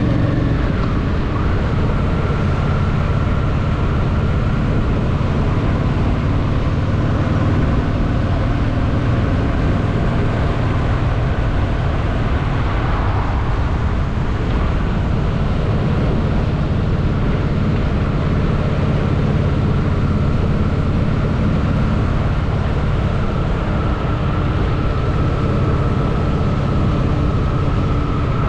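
Honda Shadow VT750's V-twin engine running steadily while riding, with its pitch shifting a little about a second in and again around the middle, over road and wind noise.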